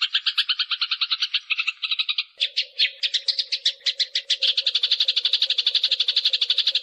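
Eurasian tree sparrows chattering in a fight: a fast unbroken run of sharp chirps, about ten a second. A faint steady low hum joins about two and a half seconds in.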